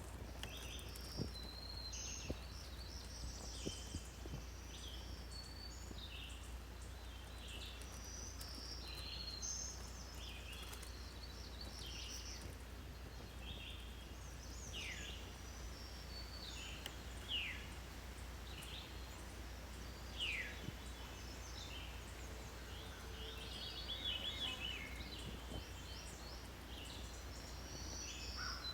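Several birds singing and calling, with many short high chirps and whistled phrases and a few sharp downward-sweeping notes, over a steady low rumble.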